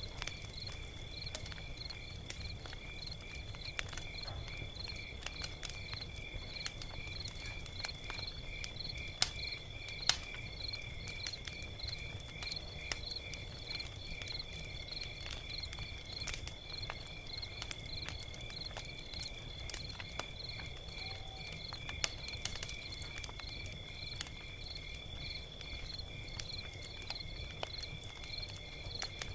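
Log fire crackling with scattered sharp pops over a low rumble, while crickets chirp steadily in an even, rapid pulse.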